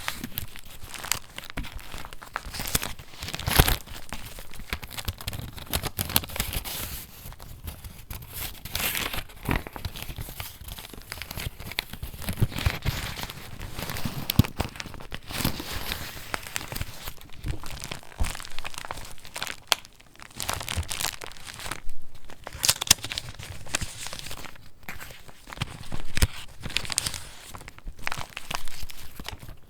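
Pages of a handmade paper junk journal being turned and handled: irregular paper rustling and crinkling, with louder crisp page flips now and then.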